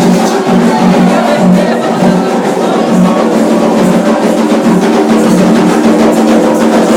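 Drum-led percussion music with a steady, regular beat.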